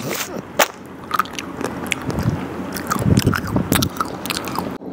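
Close-up biting and chewing of chocolate: irregular crunches and crackles as a chocolate-coated ice cream bar and other chocolates are bitten and chewed.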